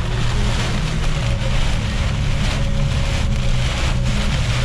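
Jeep driving through a heavy downpour, heard from inside the cabin: a steady engine and road drone under an even hiss of rain on the vehicle.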